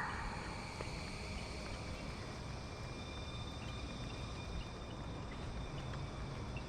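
Steady outdoor background noise of a park, with a few faint high chirps scattered through it.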